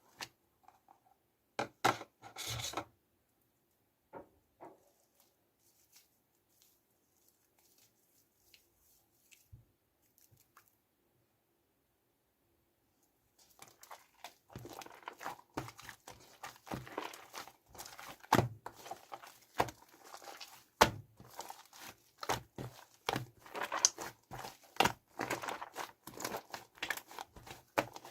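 Shaving foam being squished and mixed by hand, with crackly, crinkling sounds. A few short bursts come in the first seconds; about halfway in, the handling becomes continuous, dense crackling with sharp clicks.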